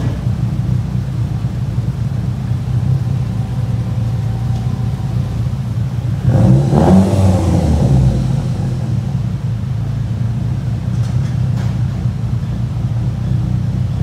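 Proton Satria's swapped-in 4G61T turbocharged four-cylinder engine running at a steady idle, revved once about six seconds in and settling back to idle within a couple of seconds.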